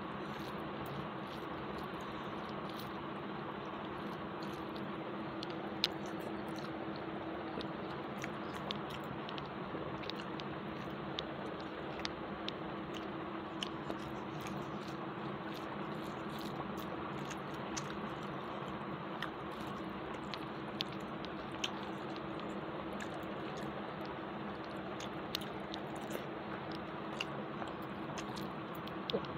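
Close-up chewing with small wet clicks and squishes as fingers mix rice and chicken curry on a plate and carry it to the mouth, scattered through the whole stretch over a steady background hum.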